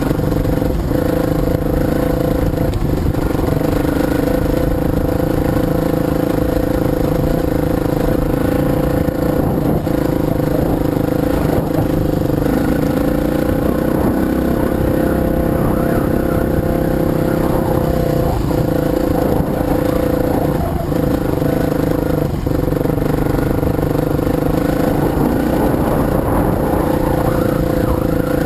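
Off-road motorcycle engine running at a fairly steady speed while being ridden over a rough dirt trail.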